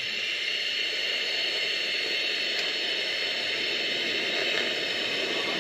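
TIG welding arc burning steadily while tacking a stainless exhaust joint: an even hiss with a faint high whine, struck abruptly just before and held without a break.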